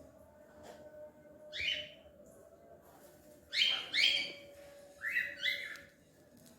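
A bird calling: one short call, then two quick pairs of calls.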